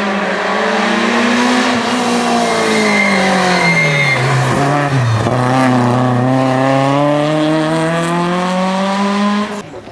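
Rally car engine driving through a stage. Its note drops from about three to five seconds in as the car brakes, with a brief tyre squeal, then climbs in one long steady rise as the car accelerates away, until it cuts off suddenly near the end.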